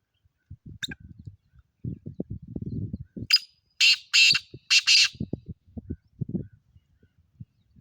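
Black francolin (black partridge) calling: a faint short note about a second in, then four loud, harsh notes close together in the middle. Low rumbling knocks come before and after the call.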